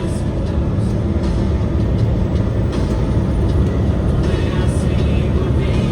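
Truck driving on the road: a steady, low rumble of engine and road noise.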